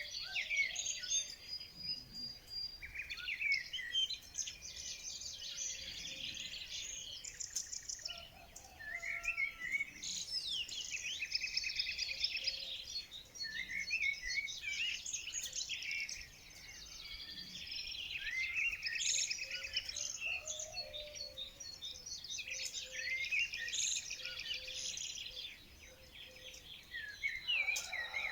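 Songbirds singing and chirping continuously, several birds overlapping with fast trills and short rising and falling whistles.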